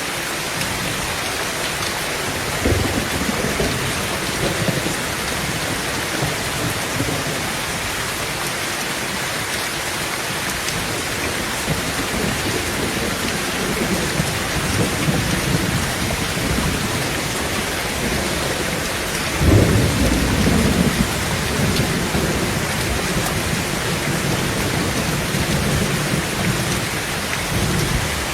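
Heavy rain falling steadily on a tin roof, with thunder rumbling several times, the loudest roll about two-thirds of the way through.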